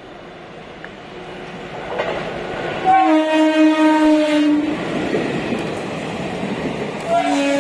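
WAG-5 electric locomotive hauling an express through a station at speed without stopping. The train's rushing rumble grows as it nears and passes. The horn blows twice: a blast of about a second and a half about three seconds in, and another starting near the end, a little lower in pitch as the locomotive moves away.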